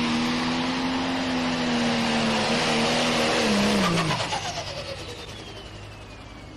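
Pro stock pulling tractor's 680-cubic-inch single-turbo engine running flat out at a steady pitch under load, then the revs fall away about three and a half seconds in as the throttle comes off at the end of the pull. A thin high whine slides steadily down in pitch afterwards as the turbo winds down.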